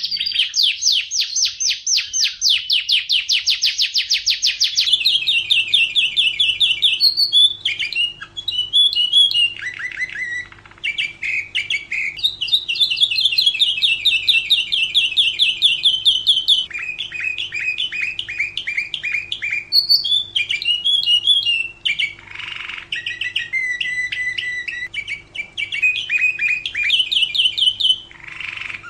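Domestic canary singing a long, unbroken song of rapid trills. Each trill is a quick run of one note repeated many times, and the song switches to a new trill at a different pitch every second or two. A faint steady hum sits underneath from about five seconds in.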